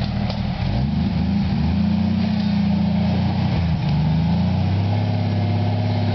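Off-road vehicle's engine running under load on a rock climb, revving up and down several times.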